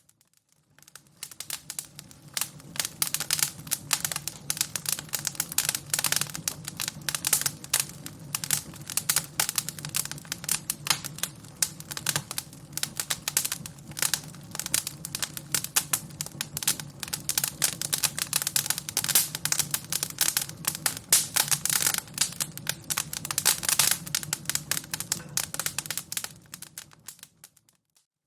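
Wood fire crackling: a dense, irregular run of snaps and pops. It fades in over the first second and fades out again just before the end.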